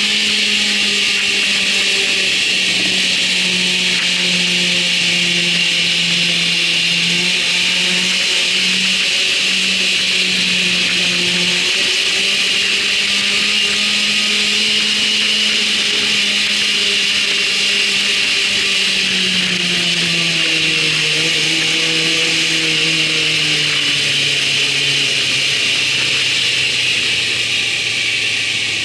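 Motorcycle engine running at a steady speed under heavy wind rush on the microphone. In the last third the engine note falls gradually as the revs come down.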